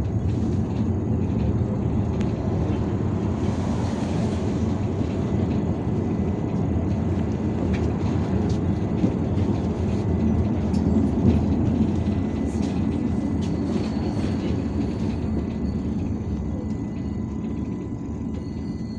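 Inside an IVECO Urbanway 18M articulated city bus under way: a steady low rumble of engine and road, with scattered rattles, easing slightly near the end.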